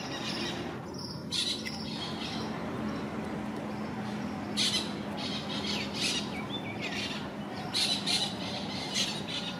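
Birds squawking and chirping in short bursts, about half a dozen times, over a faint steady low hum.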